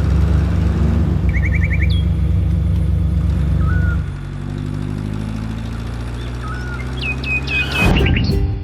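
A low engine running steadily, dropping to a quieter, smoother run about four seconds in, with birds chirping and one quick trill over it.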